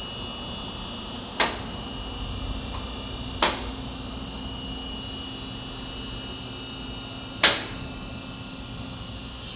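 Three sharp metallic knocks a few seconds apart, like a hand tool striking or being set down on metal, over a steady hum.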